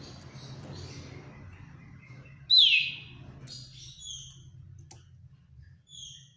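Common iora (sirtu/cipoh) calling: one loud whistle sliding downward about two and a half seconds in, followed by short high notes about four and six seconds in.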